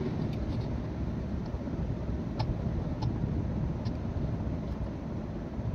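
Steady rumble of a passenger train coach running at speed, with a few faint clicks.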